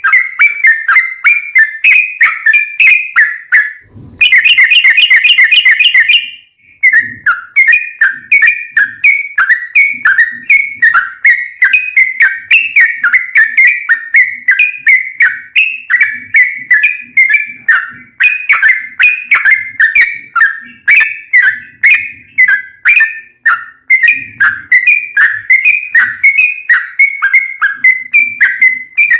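Yellow-vented bulbul (trucukan) singing a long rapid song of short, sharp chirping notes, about three a second. About four seconds in it breaks into a dense, rattling trill for some two seconds, then after a brief pause goes back to the chirping run.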